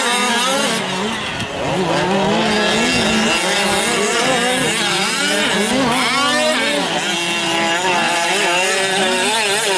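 Several 1/5-scale gas-powered RC trucks racing, their small two-stroke engines revving up and down with pitches rising and falling over one another.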